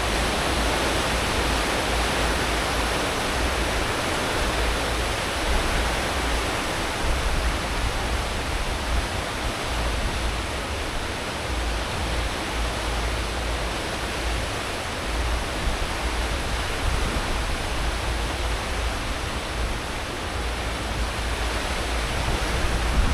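Churning wake water behind a cruise ship running at full speed: a steady rushing hiss over a low rumble.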